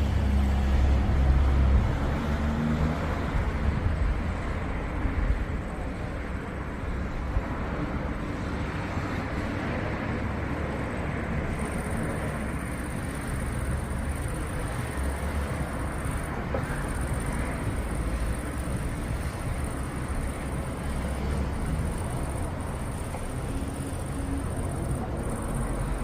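Thunder rumbling low, loudest at the start and fading over the first few seconds, then swelling faintly again later, over a steady hiss of storm noise. A faint high steady whine comes in about halfway through.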